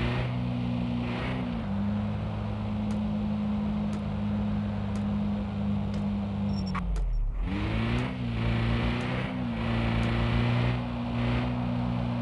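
Steady motor hum of a moving road vehicle, heard from a car on the road. Its pitch sags and comes back slightly around a second and a half in, then dips sharply and recovers about seven seconds in, with faint ticks about once a second.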